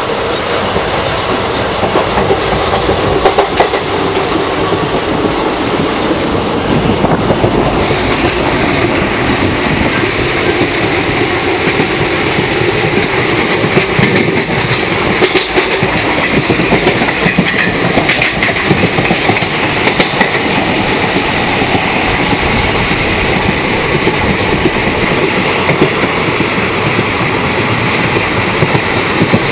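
Indian Railways passenger train running at speed, heard from beside an open carriage door: a loud, steady rush of running noise with frequent clicks of the wheels over the rail joints.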